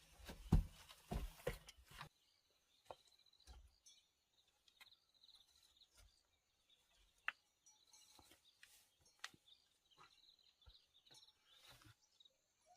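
Quiet outdoor ambience: a quick run of dull knocks in the first two seconds, then scattered small clicks and taps, over a faint, steady high chirring in the background.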